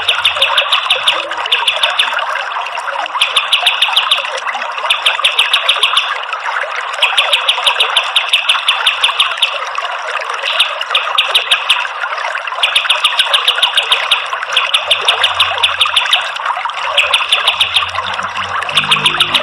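Kapas tembak songbird singing rapid, high trilled bursts of a second or two each, repeated with short gaps, over a steady rush of running water.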